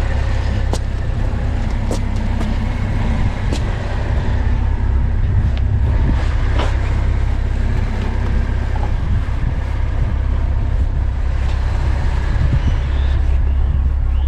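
A car running with a steady low rumble, with a few light clicks over it.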